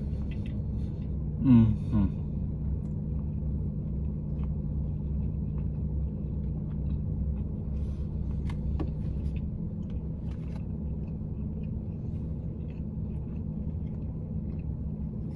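Steady low hum of a car idling, heard from inside the cabin. A short falling vocal murmur comes about a second and a half in, and a few faint clicks come later.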